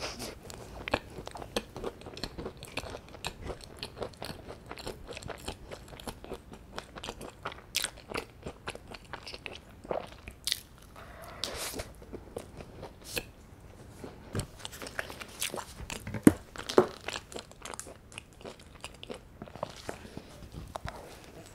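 Close-miked biting and chewing of a whole-wheat scone: a dense run of small crumbly crunches, with a few louder bites scattered through.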